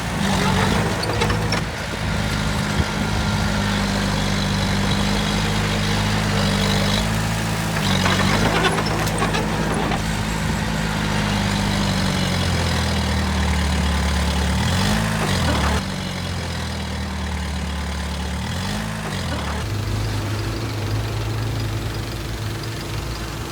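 Heavy diesel engine of construction machinery running steadily. About halfway through the note drops lower, then rises and falls twice in short revs.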